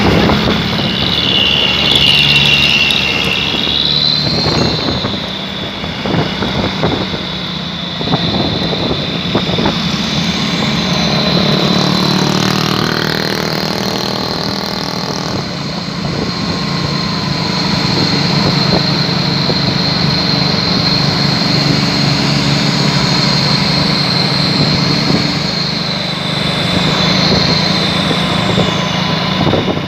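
Truck engine running through a loud aftermarket 'chung takalar' exhaust, revving up in pitch around the middle. A steady high whine sits over it.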